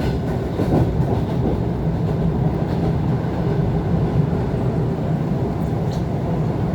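ET2 electric multiple unit running between stations, heard inside the carriage: a steady rumble of wheels on the track and running gear, with a faint click near the end.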